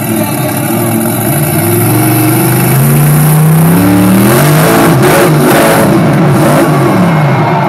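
Loud engines revving, several pitches rising and falling and overlapping, with a heavy rumble underneath.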